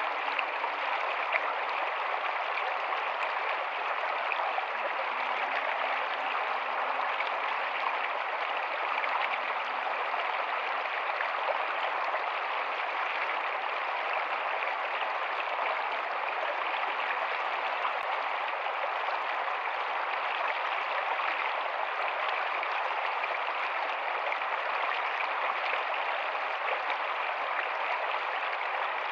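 Rocky stream flowing steadily, an even rushing of water over stones.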